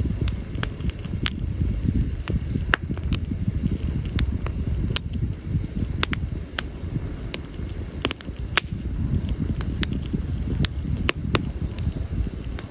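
Burning firewood in an outdoor campfire crackling, with sharp pops at irregular intervals, several a second at times, over a steady low rumble.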